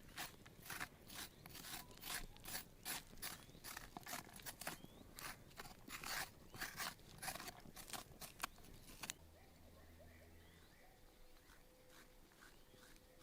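A quick run of sharp, crisp clicks and scrapes, about two or three a second, that stops abruptly about nine seconds in.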